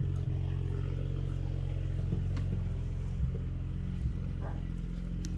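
BMW engine idling steadily with a deep, even drone, warming up after a cold start.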